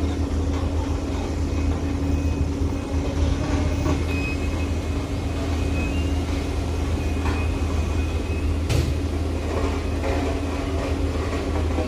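Heavy truck engine running with a steady low drone, with one sharp click about three-quarters of the way through.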